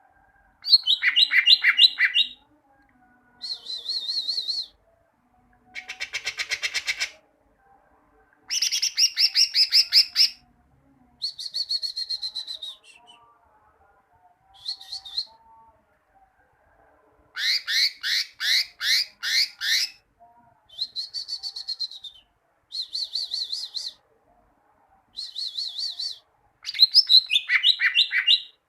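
Green leafbird (cucak ijo) singing: a run of short, loud phrases of fast trilled and repeated whistled notes, each one to two seconds long with brief pauses between them. About six seconds in comes one harsh, buzzing rattle.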